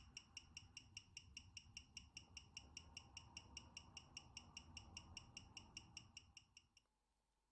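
Freshly serviced 1940s Tudor's FHF 30 movement ticking steadily, about five beats a second; its rate and amplitude are decent, but the beat error still needs a little fine tuning. The ticking stops about a second before the end.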